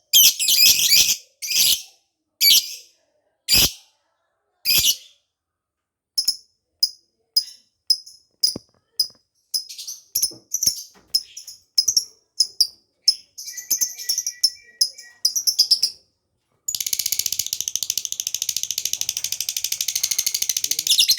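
Lovebird calling: several harsh, screechy calls, then a run of short high chirps. About three-quarters of the way in comes a long, rapid, unbroken trill, the drawn-out 'ngekek' chatter.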